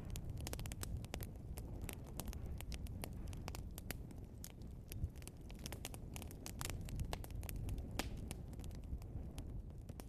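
Burning log fire crackling and popping: many irregular sharp snaps over a steady low rumble.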